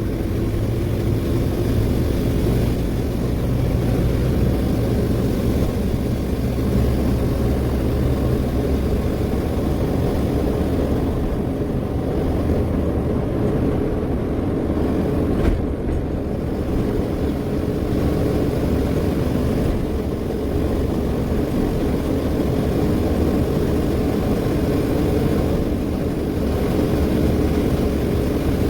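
Ashok Leyland 2528 tipper truck's diesel engine running steadily on the move, with one sharp click about halfway through.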